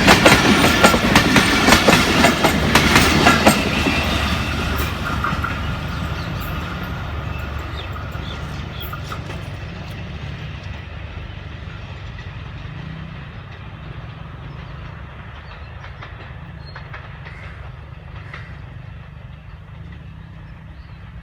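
Passenger train's coaches clattering over the rail joints, with loud rapid wheel clicks for the first few seconds, then the rumble fading steadily as the train pulls away out of the station.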